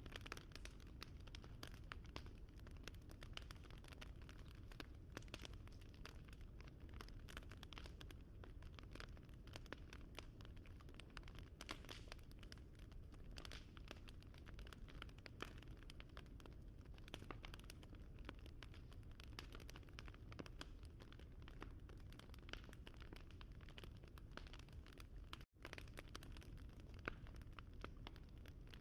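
Wood fire crackling softly, with dense small pops and snaps over a steady low rumble. The sound drops out for an instant near the end.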